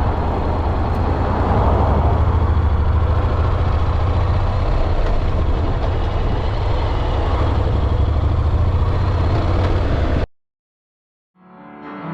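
Steady motorcycle riding noise: a low engine drone with wind and road rush. It cuts off abruptly about ten seconds in, and after a moment of silence music fades in near the end.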